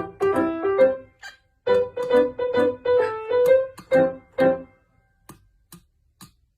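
Piano music: a melody of short, separate notes in two phrases, stopping about five seconds in, followed by a few faint clicks.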